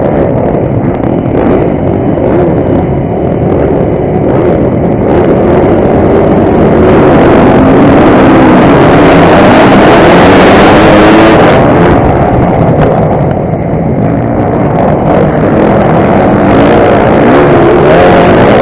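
Motocross bike engine running hard and continuously, its pitch rising and falling with the throttle, loudest for a stretch in the middle.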